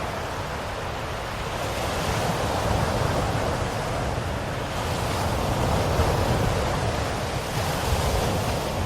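Ocean waves: a continuous rush of surf with a deep low rumble underneath, swelling slowly over the first few seconds and easing again near the end.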